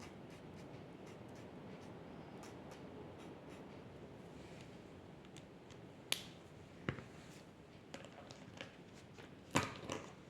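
Faint scratching of a drawing tool on paper, with a few sharp clicks or taps in the second half, the loudest near the end.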